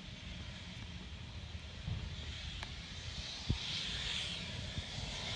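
Private jet's engines hissing and whining as it rolls along the runway after landing, the hiss swelling about three seconds in. Wind rumbles on the microphone, with a short thump near the middle.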